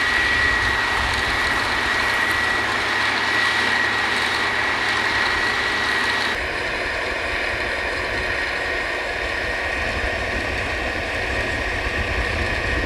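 Drilling rig machinery running steadily, a constant engine drone with a steady high whine over it. About six seconds in the whine stops and the noise changes abruptly, then runs on evenly.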